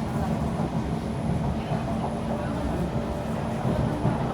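Kawasaki C151 metro train running between stations, heard from inside the carriage: a steady rumble of wheels on rail with a constant hum.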